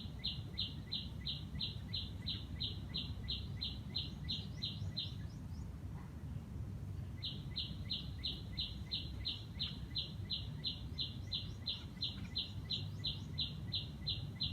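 A bird repeating one high, short note about four times a second in a long even series. It breaks off for about two seconds midway and then starts again, over a steady low background rumble.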